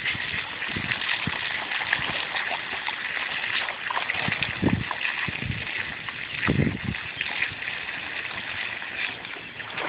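Water spraying steadily from a hose in a hissing stream, with irregular low thuds, the loudest a little before and after the middle, as a dog chases and snaps at the water.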